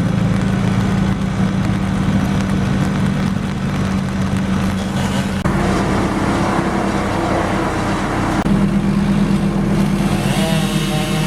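Engine of tree-removal machinery running steadily, with a rougher, hissing noise joining about halfway through.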